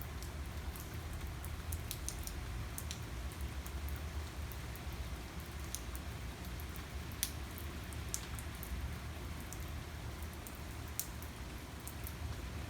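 Steady rain falling, a continuous hiss with many scattered sharp ticks of individual drops hitting a surface, over a constant low rumble.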